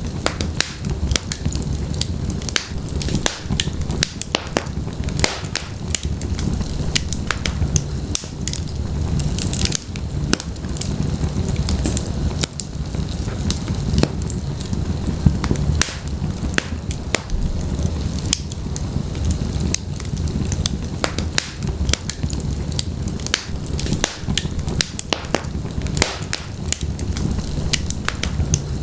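Wood logs burning in a fireplace: a steady low rumble of flame with continual sharp, irregular crackles and pops.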